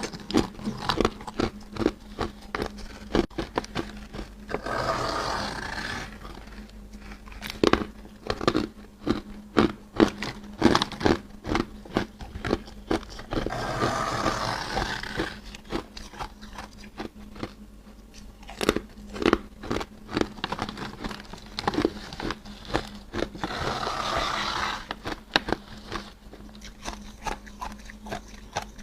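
Freezer frost being bitten and chewed close to the microphone: a steady run of sharp, crisp crunches, with three longer, noisier crunching stretches spaced roughly nine seconds apart.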